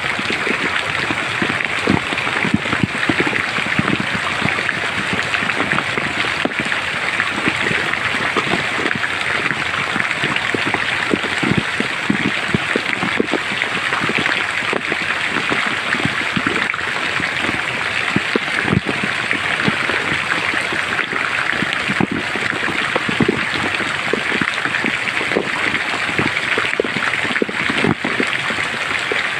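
Steady rain falling in a forest, with many separate drop hits close by over an even hiss.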